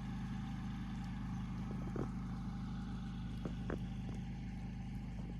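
A steady low mechanical hum, like an engine or motor running, with a few faint clicks over it.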